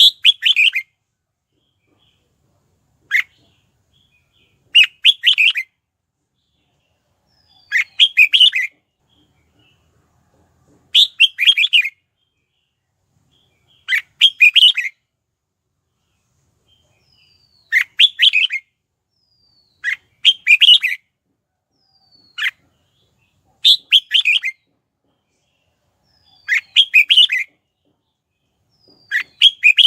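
Red-whiskered bulbul singing: short, warbled phrases under a second long, repeated about every three seconds. Twice a single sharp note comes between phrases.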